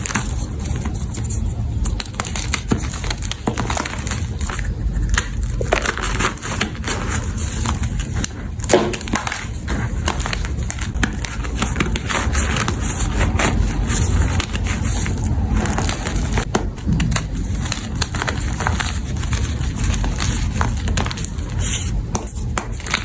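Blocks of powdery gym chalk being crushed, a dense run of crunching and crumbling crackles with no pause.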